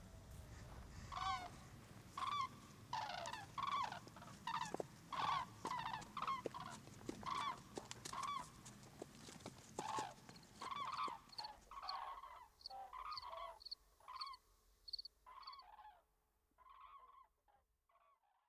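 A flock of common cranes calling, many repeated trumpeting calls overlapping at first, then thinning out and fading away.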